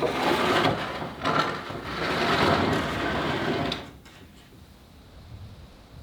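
A plane shaving wood off a board for about four seconds, with a short break after about a second, then stopping: trimming a cut shutter piece straight and to size.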